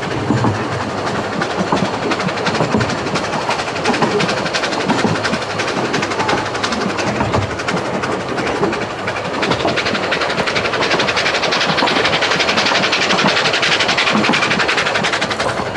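Running noise of a carriage on the Vale of Rheidol narrow-gauge steam railway: a steady clatter and rattle of wheels on the track, heard through an open carriage window. It turns hissier over the last few seconds.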